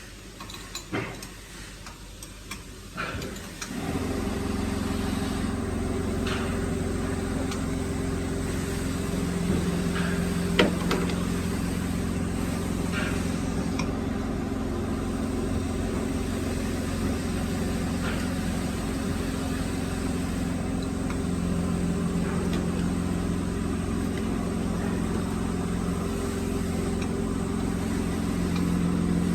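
A few light knocks, then about four seconds in a woodworking mortising machine starts and runs with a steady motor hum, with occasional clicks over it.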